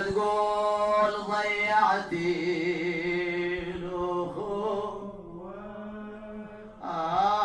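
A man's voice chanting a Shia nai lament in long, held, wavering notes without clear words. It grows softer about five seconds in, then swells again near the end.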